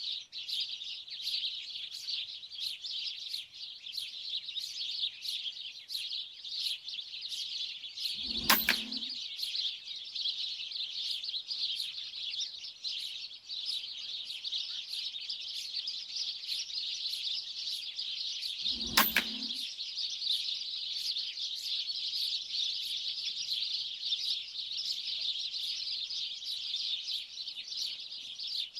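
A large flock of small birds chattering continuously, with two air rifle shots about ten seconds apart, each a sharp crack followed by a short low thud.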